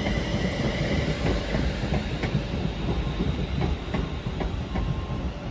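Class 350 electric multiple unit running through the platform, a steady rumble with irregular clicks of its wheels over rail joints.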